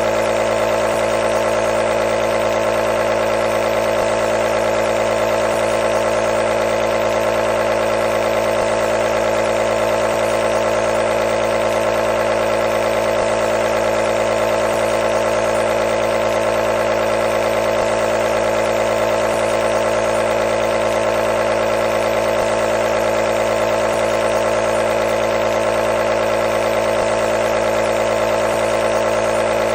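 Nebulizer's compressor motor running with a steady, unchanging hum and buzz.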